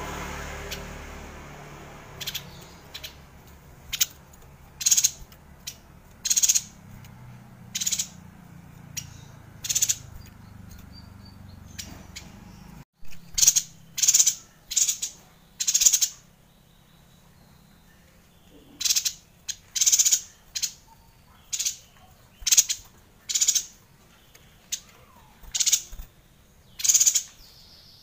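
Yuhina calling: short, sharp, high-pitched chirps, one every half second to a second, with a pause of a few seconds midway.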